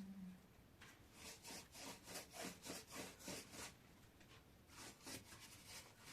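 Faint rhythmic scraping strokes, about two or three a second, that pause for a moment and start again briefly near the end.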